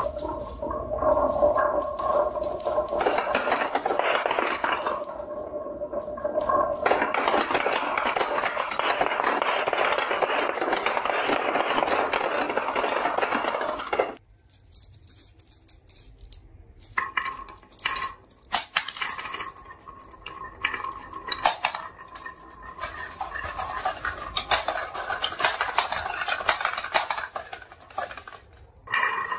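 Marbles rolling and clattering down a wooden marble run, a dense rapid rattle of clicks. About halfway through it drops away suddenly, and sparser clicking picks up again a few seconds later.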